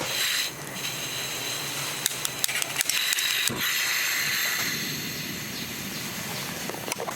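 Wind rushing through forest trees, with a quick run of sharp clicks and taps about two to three seconds in and a couple more near the end.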